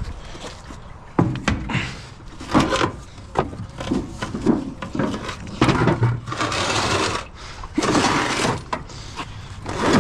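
Irregular knocks and clatter of tools and wood being handled, with two longer scraping sounds in the second half.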